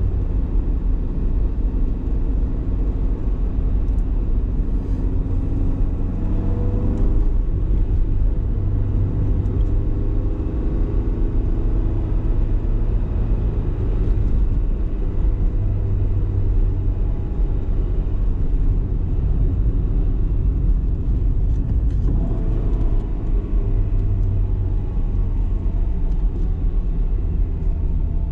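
BMW E30 318is's 1.8-litre M42 four-cylinder engine pulling the car along, over a heavy low rumble of road noise. The engine note climbs as the revs rise about six seconds in and again a little after twenty seconds, then holds steady.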